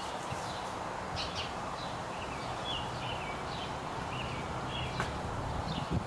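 Small birds chirping in the background, short downward-sliding notes repeating a few times a second, over low rustling and soft bumps.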